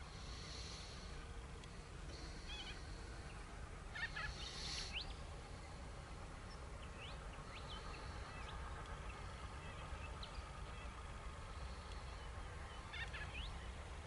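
Birds calling: harsh, scratchy calls in three short bouts, the loudest about four seconds in, with scattered short rising chirps between. Underneath is a faint steady low rumble from the distant approaching diesel grain train.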